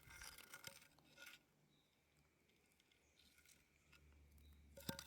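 Near silence, broken by a few faint crunching, clinking footsteps on loose coal and gravel in the first second and again near the end.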